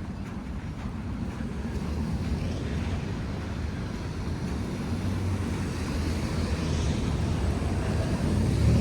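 Low, steady rumble of street traffic under an even hiss, growing louder toward the end as a vehicle draws near.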